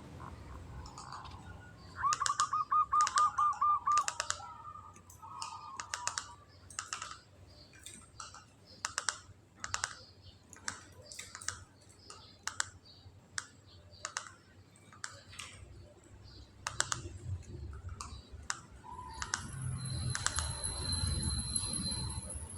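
Zebra dove (perkutut) giving its rapid rattling 'ketek' trill, a quick run of even pulses, about two seconds in. A long irregular series of sharp clicks follows, and near the end a thin steady high whistle.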